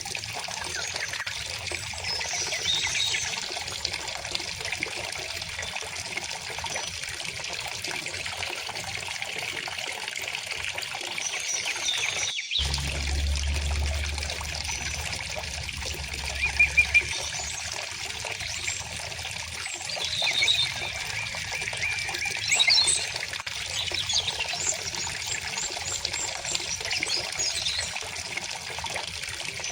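Shallow river water trickling and flowing steadily while small birds chirp and sing now and then over it. Just past the middle the sound drops out for an instant, and a low rumble then runs for a few seconds.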